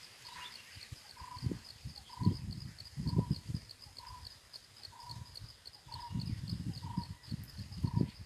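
A bird repeating a short single note about once a second over a steady, fast-pulsing insect trill, with gusts of wind rumbling on the microphone.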